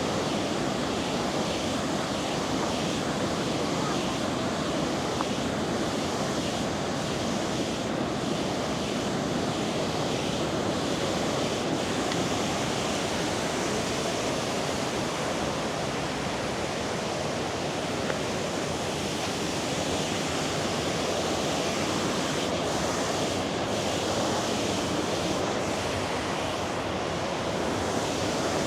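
Steady rush of a river's flowing water, an even wash of noise that holds level throughout.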